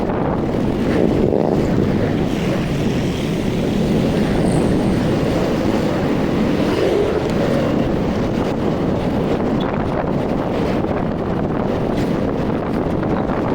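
Steady wind rush on the microphone of a moving Rusi RFI 175 motorcycle, with its running and road noise underneath.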